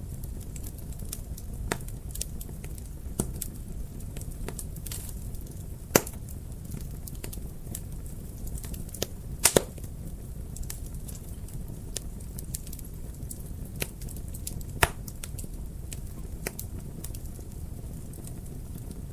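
Fire crackling in a fireplace: irregular sharp pops and snaps over a low, steady rumble of flames. The loudest pops come about six seconds in and as a close pair near the middle.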